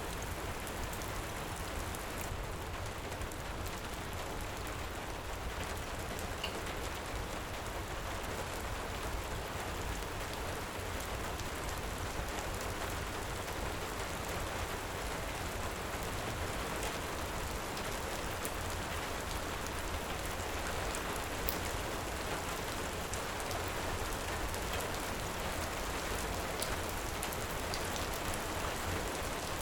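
Heavy rain falling steadily, with a low rumble underneath and scattered small crackles from a wood fire.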